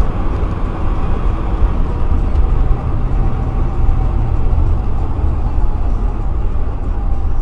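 Steady low rumble of a car being driven, engine and tyre noise picked up by a dashcam inside the cabin.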